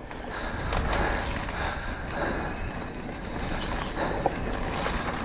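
Trek Rail electric mountain bike descending a dirt trail: a steady rush of tyre and wind noise, with scattered rattles and knocks from the bike.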